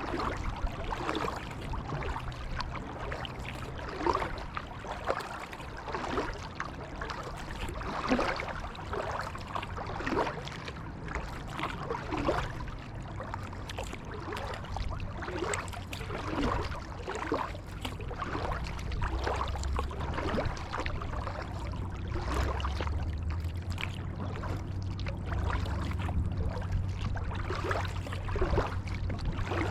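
Kayak paddle strokes dipping and pulling through creek water, a splash and drip every second or two, over a low rumble that grows stronger past the middle.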